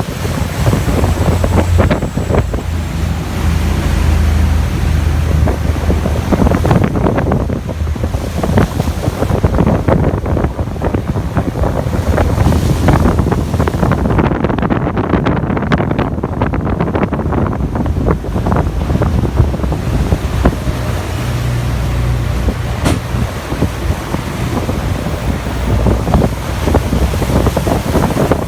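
Wind buffeting the microphone over the rush of water and a steady low drone from a motor yacht running under way at sea.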